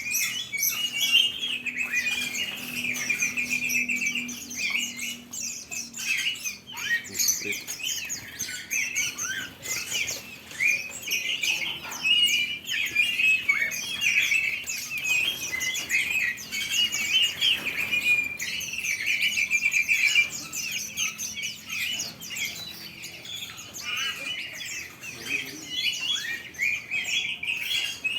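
Many caged songbirds chirping and twittering at once, a dense, continuous chorus of overlapping calls.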